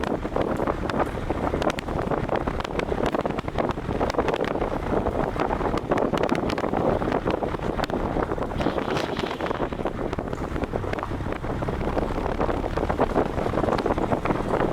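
Wind buffeting the microphone of a camera on a moving vehicle at road speed, a steady heavy rush with a low engine and road drone beneath.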